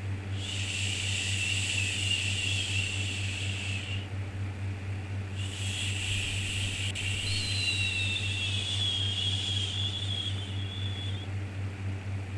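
Soothing "shhh" shushing sound for lulling a baby: long hissing strokes of several seconds, the first ending about four seconds in and the next running from about five seconds to about eleven, with short pauses between. A steady low hum of background noise runs underneath.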